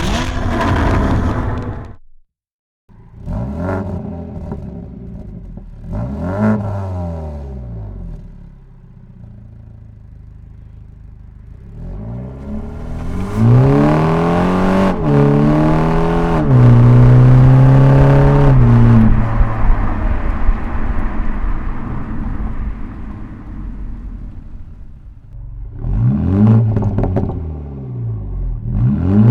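BMW G20 330i's 2.0-litre turbocharged four-cylinder (B48) exhaust through an Eisenmann stainless-steel sport rear muffler with exhaust flaps and particulate filter: short throttle blips from idle, then a long hard acceleration where the pitch climbs and drops back twice before fading, and more blips near the end.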